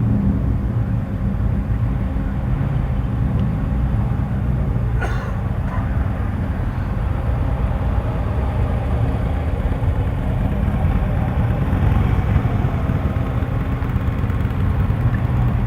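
Car engines running as cars roll slowly past: a steady low engine rumble with no revving.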